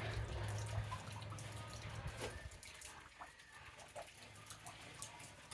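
Water dripping and trickling, with scattered small drips and splashes. A low hum underneath fades out after about two seconds.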